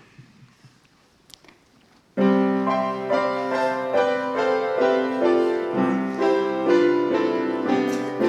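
After a short, quiet pause, a piano starts playing about two seconds in: the introduction to a song's accompaniment, with chords and a melody that carry on steadily.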